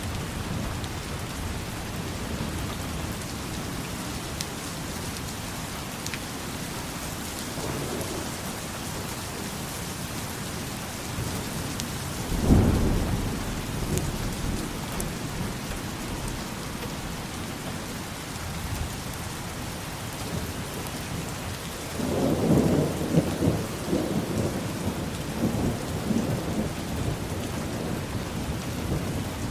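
Steady rain with thunder: a sudden loud clap about twelve seconds in, then a longer rolling rumble starting about twenty-two seconds in.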